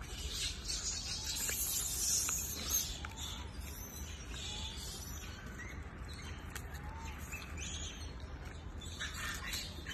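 Small birds chirping in the background, busiest in the first three seconds and again near the end, with a few faint short rising-and-falling whistles. A single sharp click about three seconds in, over a low steady rumble.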